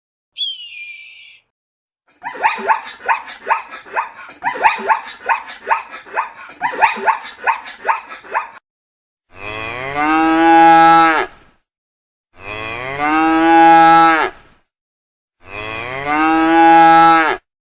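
A cow mooing three times, each moo a long call of about two seconds. Before the moos come a rapid run of short, repeated calls from another animal and a brief high falling call.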